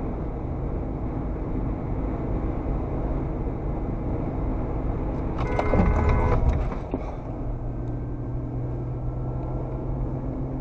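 Steady road and engine noise of a car driving. About halfway through, a car horn sounds for just over a second.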